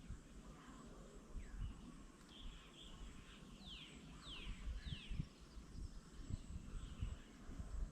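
Faint outdoor ambience with small birds calling, including three quick downward-sliding calls around the middle, over a low rumble.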